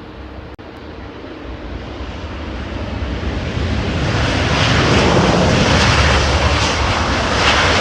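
Jet airliner passing close by, its engine noise growing steadily louder over about five seconds and then holding loud.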